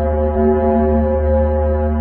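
Steady droning tone with a deep hum beneath it, like a held foghorn note: a space-sound sonification presented as the 'sound of Venus', said to come from space probes' plasma-wave instruments.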